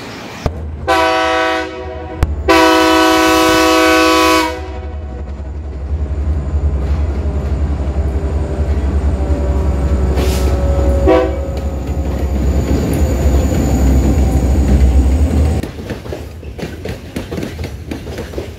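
Metre-gauge diesel freight train passing: the locomotive horn sounds twice, a short blast then a longer one, with a brief toot later, over the deep rumble of the locomotives' engines. Near the end the engines have gone by and the freight wagons roll past, their wheels clicking over the rail joints.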